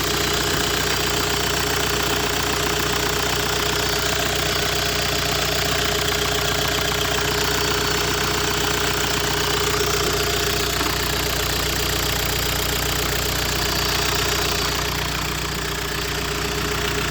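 Volkswagen 1.9 TDI ASZ four-cylinder turbodiesel engine idling steadily, dipping slightly in level near the end.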